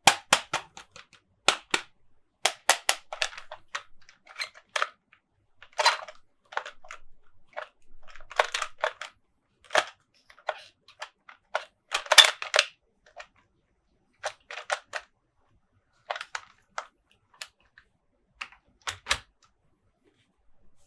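Irregular runs of sharp plastic clicks and taps from hands handling and tapping plastic toy monster trucks, with short silences between the runs and the busiest, loudest burst about two-thirds of the way through.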